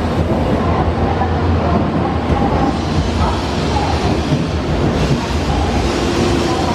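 Shinkansen bullet train pulling in alongside the platform: a steady rumble of the carriages rolling past.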